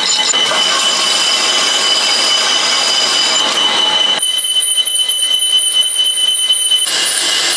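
A power tool working on metal: a steady high-pitched screech over harsh noise. The sound changes abruptly about half a second in, about four seconds in and near the end.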